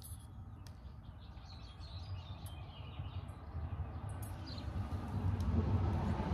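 A songbird chirping in a quick run of short notes over a low background rumble; the rumble grows louder near the end.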